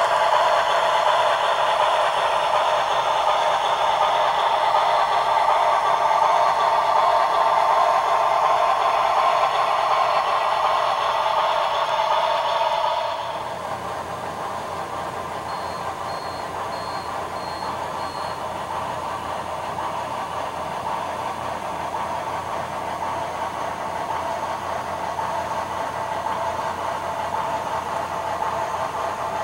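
Sound-equipped HO-scale Shay model locomotive running, its sound decoder playing steam-locomotive sounds through the onboard speaker: a steady hissing that drops off suddenly about thirteen seconds in, then quieter running with four short high beeps a few seconds later.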